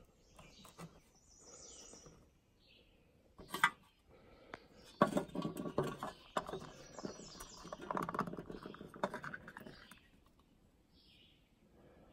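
Birds chirping faintly while a small metal mint tin is handled on a wooden shelf: a sharp click about three and a half seconds in, then several seconds of rattling and scraping as the tin is held and shaken before the lid is opened.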